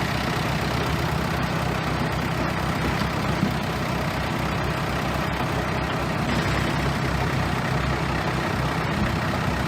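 Bulldozer's heavy diesel engine running steadily, a deep even hum with no breaks.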